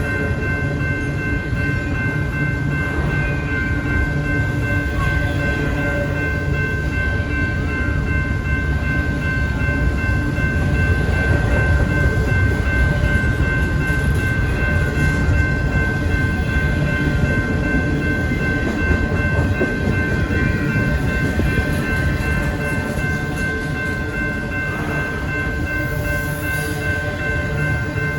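A train rolling through a railroad crossing, a steady rumble of the cars going by. A few steady high tones ring over it the whole time.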